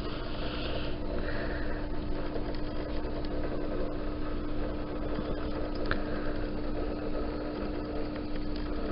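Steady machine hum with one constant tone under a low rumble, with a few faint ticks.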